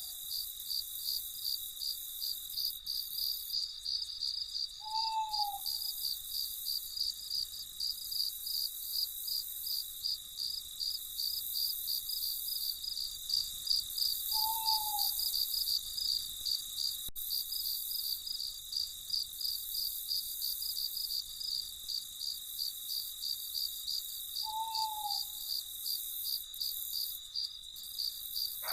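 Crickets chirping in a steady, evenly pulsing chorus, with a single short owl hoot about every ten seconds, three in all.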